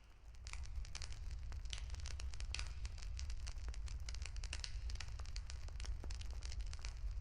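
Wood fire crackling, with dense irregular sharp pops over a steady low rumble; the sound swells back in from a brief dip at the very start.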